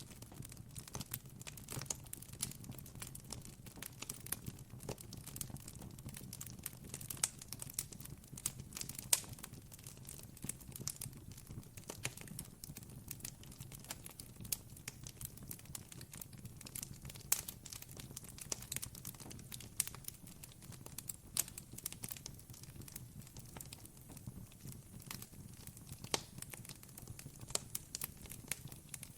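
Campfire crackling: irregular sharp pops and snaps of burning wood, many a second, over a soft steady low rumble of the flames.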